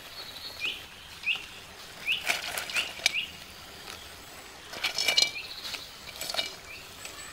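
A bird calling over and over with short rising chirps. Twice, about two seconds and five seconds in, a brief clatter as fried colocasia pieces are tipped from a steel bowl into an iron kadai.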